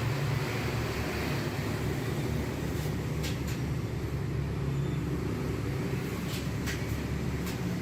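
Steady low hum of a running engine, with a few short clicks over it.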